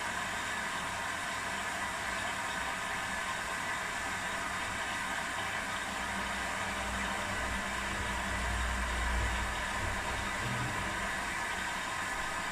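Two front-loading washing machines, an Electrolux and an Arctic, running their quick 30 °C programs while still filling: a steady hiss of water running in. A low rumble from a turning drum swells from about halfway through and eases off near the end.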